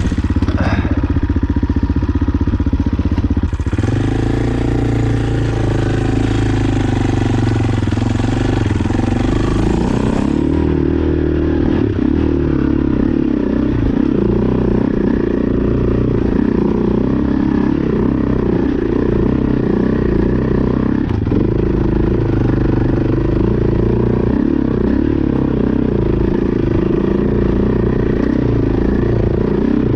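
Off-road motorcycle engine revving hard and unevenly as it climbs a steep, muddy, stony trail, the revs rising and dropping as the throttle is worked. The revs step up sharply about three and a half seconds in.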